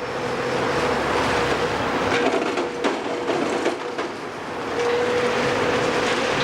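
Tracked demolition excavator working: the engine runs with a steady whine, and metal clanks and rattles from the tracks and the work.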